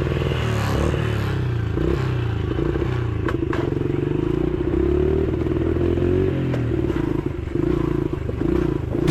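Dirt bike engines running and revving while riding, their pitch rising and falling.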